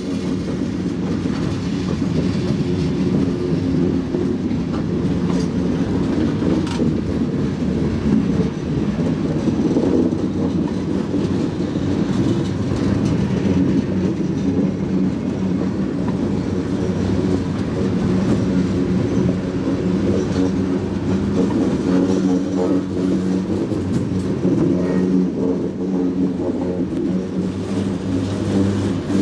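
Freight train cars rolling past along the track in a steady, unbroken rumble.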